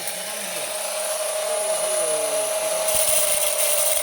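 Seed and grain sorting machine running steadily with a constant whine and a hiss; the hiss grows brighter about three seconds in.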